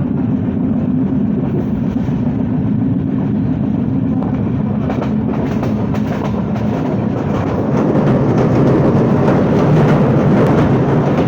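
Passenger train running on the rails, heard from on board: a steady low rumble. About halfway through, a rapid clatter of wheels over the track joins it, and the clatter gets louder near the end.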